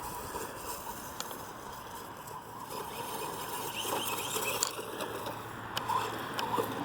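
Hosim S911 RC truck running in grass, its electric motor giving a faint steady whine over the rustle of tyres through the grass, with a few small clicks.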